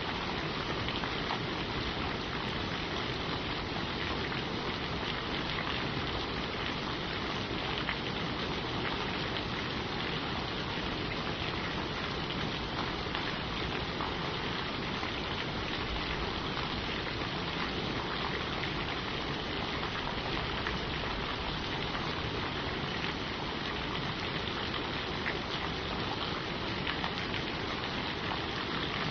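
Steady rain falling on forest leaves, an even hiss of countless drops with faint individual drip ticks, no thunder.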